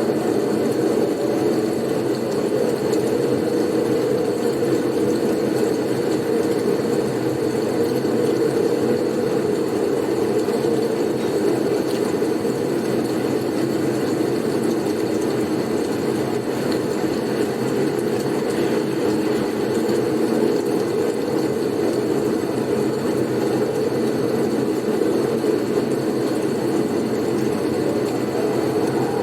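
Steady blizzard wind: an even, unchanging rush of low noise with no gusts or breaks.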